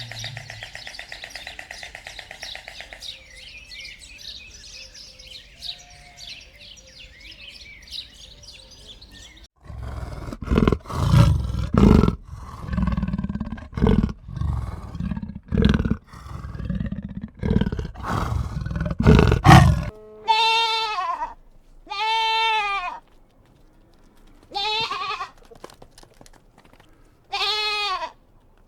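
Farm animals calling. First a run of loud, deep, grunting calls, then several separate bleats from sheep or goats, each with a quavering pitch.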